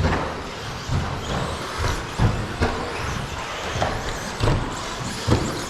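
1/10-scale electric stadium trucks with 13.5-turn brushless motors racing around the track: high motor whines rising and falling over tyre noise, with several short low thumps.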